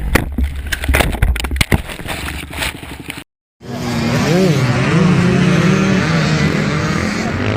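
Dirt bike riding sounds: about three seconds of rough rumble with a run of sharp knocks and clatter, then a brief dead gap, then a motorcycle engine running under load, its pitch wavering up and down as the throttle changes.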